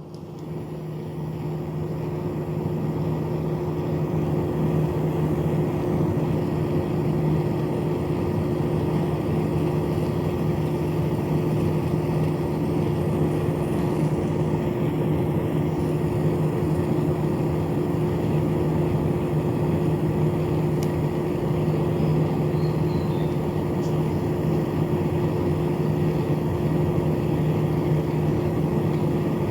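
Small battery-powered DC motor spinning a fan rotor, a steady hum that builds over the first few seconds and then holds level.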